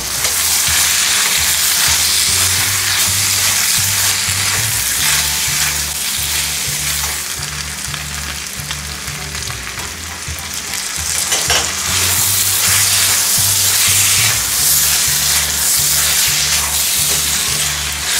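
Chicken and cauliflower stir-frying in a hot pan: steady loud sizzling with the scrape of stirring. Background music's low bass line pulses underneath.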